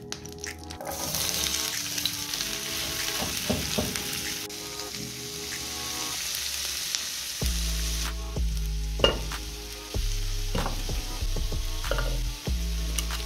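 Butter and sunflower oil sizzling in a frying pan, with sliced onions frying in it. After the sizzle fades, a few light knocks come as vegetables are set into a steel pot. Background music plays throughout.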